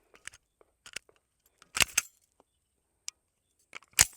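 A few sharp metallic clicks and clacks, a close pair about two seconds in and another near the end: a Taurus G3XL 9mm pistol being handled after a malfunction, which the shooter blames on the magazine.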